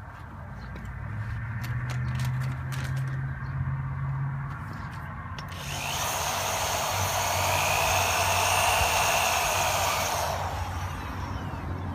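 Power drill running a headlight-restoration buffing pad: a low steady hum at first, then a louder hissing whirr from about six to ten seconds in before it eases off.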